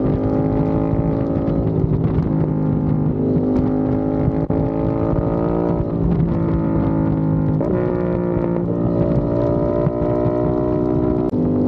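Aprilia RS660's parallel-twin engine running through a non-resonated Mivv X-M1 Evo exhaust, a deep, bassy note at a steady engine speed. The pitch shifts slightly upward a couple of times.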